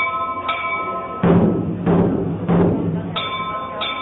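Chinese festive percussion: deep drum beats roughly every half second in the middle, with ringing metal strikes that hold a steady bell-like pitch at the start and again near the end.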